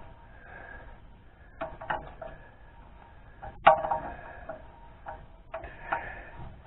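Sharp metallic clinks and knocks from hand tools and a drain plug being worked on a tractor's rear-end housing, each with a brief ring. There are about five of them, the loudest about three and a half seconds in.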